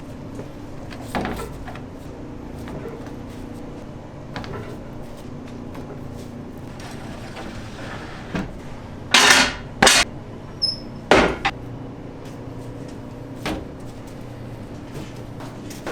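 Kitchen work noise: scattered knocks and clatter over a steady hum, with a short scraping rush and a few sharp, louder knocks a little past the middle.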